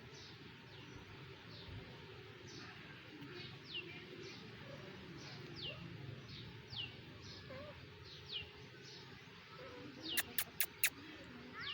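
Newly hatched Aseel chicks peeping: repeated short high calls, each falling in pitch, about two a second. Near the end there are four sharp clicks in quick succession.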